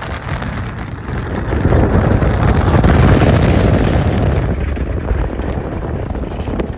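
Strong winter blizzard wind buffeting the microphone as a low rumbling roar, swelling in a gust about two seconds in.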